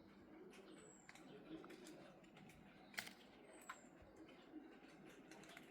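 Near silence: faint background hiss with a few soft clicks, one a little louder about halfway through, and a faint short high chirp that comes back every few seconds.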